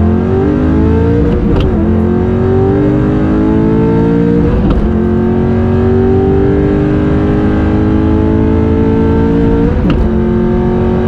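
Mustang GT V8 heard from inside the cabin under hard acceleration, revving up through the gears of a Tremec T56 Magnum six-speed manual. There are three quick upshifts, about a second and a half in, about five seconds in and near the end. After each one the revs drop and then climb again, more slowly in each higher gear.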